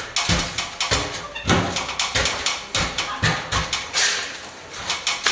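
Trowel scraping and slapping a thick sand-and-stopping-plaster render into a hole in a lath and plaster wall. Short strokes come about twice a second, each with a dull knock.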